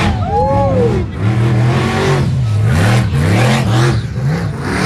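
Monster truck engine revving hard, its pitch swinging up and down several times in quick succession as the throttle is worked.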